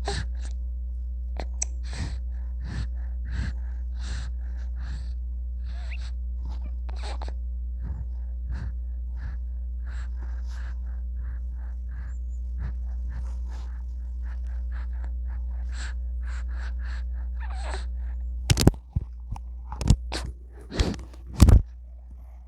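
A baby making many short breathy gasps and little squeaks. Several loud sneeze-like bursts come near the end. A steady low hum runs underneath.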